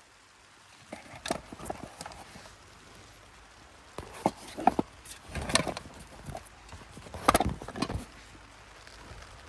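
Irregular knocks and clatters in several short clusters, the loudest a little past the middle and again near the end, over a faint steady background.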